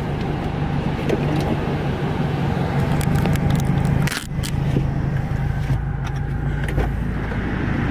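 A Subaru running, a steady low engine hum with road noise and a few light clicks, dipping briefly about four seconds in.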